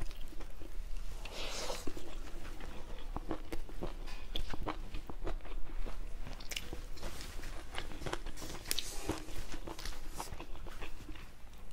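Close-up eating sounds: a man chewing and crunching mouthfuls of rice, greens and mushroom curry eaten by hand, with many short, irregular mouth clicks and smacks.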